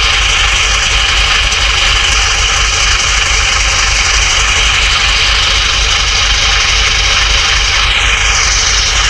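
Truck engine idling steadily with a low, even throb. Near the end a short high-pitched sound glides down in pitch.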